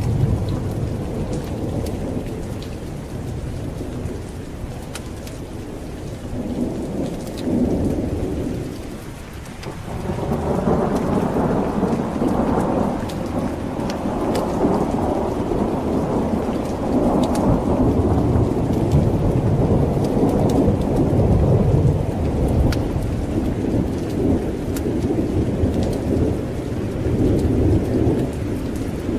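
Thunderstorm: steady heavy rain with rolling thunder. A long, deep roll of thunder builds about ten seconds in and rumbles on for most of the rest.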